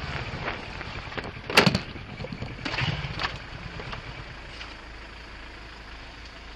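A car's steady driving and road noise, with one sharp knock about one and a half seconds in and a few lighter clicks around three seconds.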